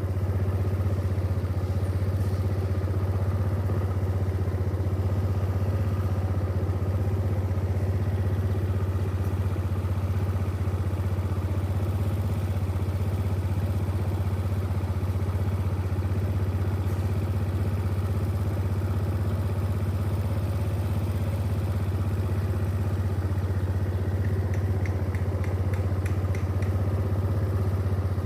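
Steady low engine drone that holds one pitch without change, with a few faint clicks near the end.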